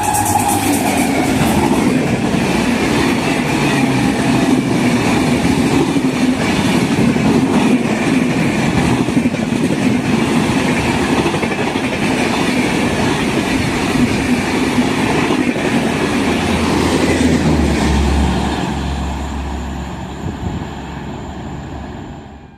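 Passenger train passing close at speed: a loud rush of wheels on rail with clickety-clack over the rail joints. The end of a horn blast dies out in the first moment, and the noise eases away over the last few seconds.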